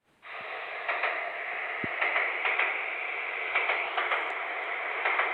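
A steady hiss like static, with faint irregular clicks, starting just after the opening.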